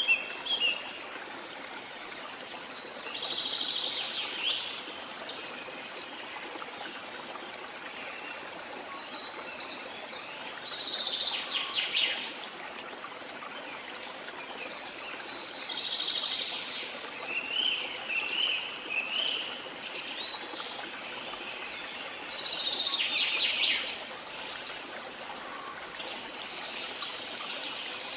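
Steady rush of a waterfall with songbirds singing over it. A chirping, trilling phrase comes every few seconds.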